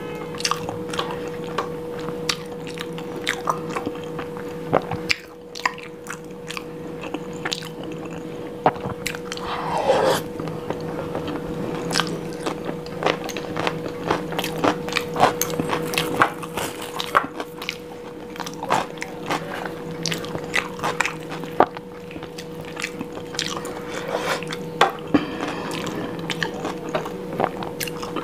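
Close-miked eating sounds: wet chewing, lip smacks and squishy mouth clicks as paratha and spicy dum aloo gravy are eaten by hand. A faint steady hum runs underneath.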